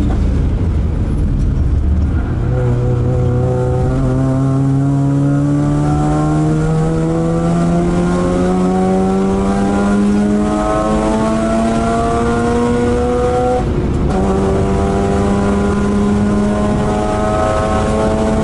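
Mazda RX-8 race car's two-rotor rotary engine under hard acceleration, heard from inside the cabin. Its pitch climbs steadily for several seconds, steps about ten seconds in, then drops briefly near fourteen seconds in before pulling on again.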